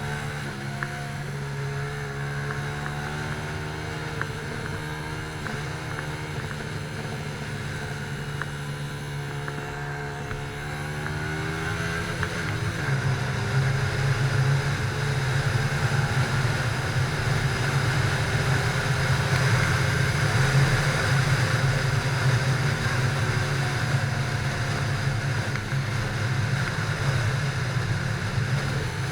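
Motorcycle engine running while being ridden, its pitch drifting up and down with the revs and growing louder about twelve seconds in.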